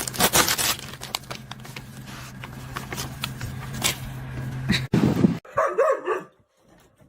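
A dog barking over a steady low hum that cuts off about five seconds in. A short call that bends in pitch follows.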